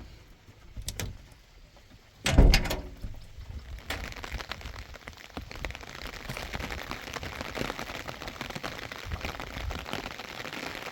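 A few light knocks, then a loud thump a little over two seconds in. From about four seconds on, steady rain falls on a surface as a dense run of fine ticks.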